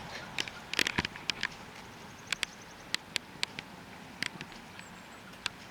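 A dozen or so sharp, irregular clicks and taps over a low steady outdoor background.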